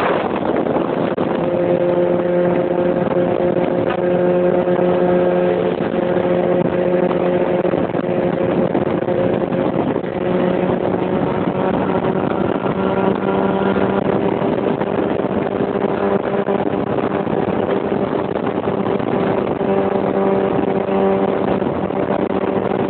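Motorcycle engine running at steady revs, its pitch rising slightly about halfway through.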